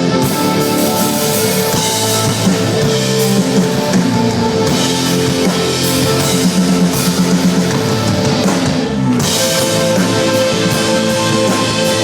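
Post-rock band playing loud: sustained electric guitar chords over a drum kit with cymbals. The cymbals drop away for a moment just before nine seconds in, then come back.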